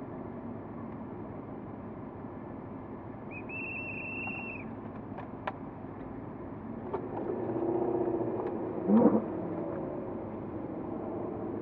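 Porsche Cayman S flat-six engine running at low revs with a steady rumble. A short high beep sounds about three seconds in, a few sharp clicks follow, and near nine seconds the engine note swells and rises briefly before settling again.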